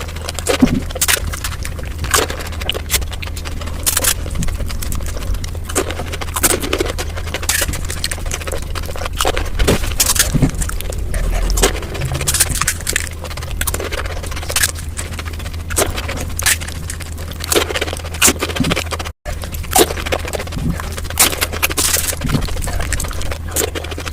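Golgappa (pani puri) being eaten, played back six times faster than real speed: a quick, irregular run of crunches and chewing clicks as the crisp puri shells are bitten, over a steady low hum. The sound cuts out for a split second about two-thirds of the way through.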